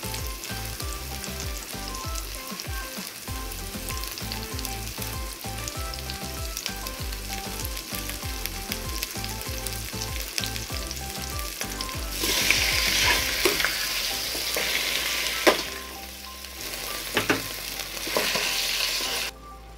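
Onions and garlic sizzling in hot oil in a stainless steel pot, with fine steady crackling. About twelve seconds in the sizzling turns suddenly louder as raw meat goes into the oil and is stirred with a spatula, with a few sharp knocks of the spatula against the pot.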